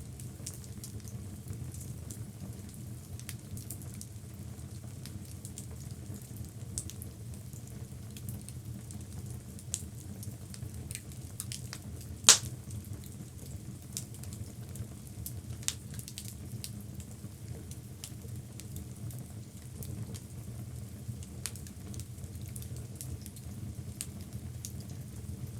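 Logs burning in a fireplace: scattered crackles over a steady low rush, with one sharp, loud pop about halfway through.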